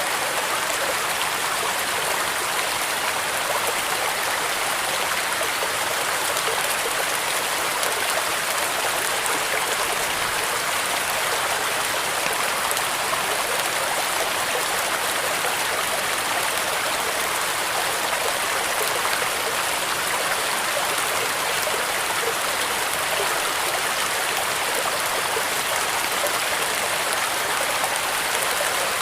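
Steady heavy rain with wind, an even hiss that does not change.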